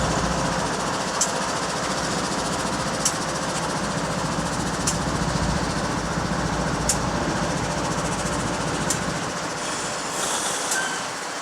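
GE ES44DC diesel locomotive running as it moves slowly, a steady rumble with a hiss, its low end fading away over the last couple of seconds. Sharp clicks come through about every two seconds.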